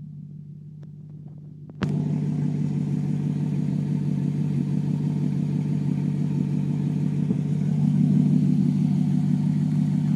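Maserati GranTurismo S V8 exhaust, its muffler valves zip-tied open, running at a steady engine speed. It is muffled at first, then suddenly much louder about two seconds in, and swells a little more near the end.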